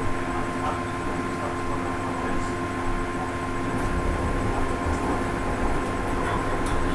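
Automatic washing machine running, a steady motor hum with several held tones.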